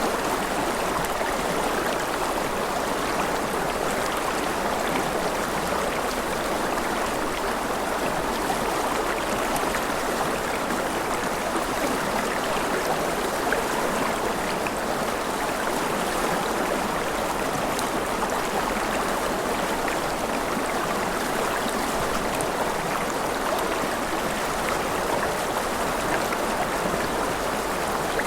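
Steady gentle rain: an even, unbroken hiss with faint fine drop ticks and no change in level.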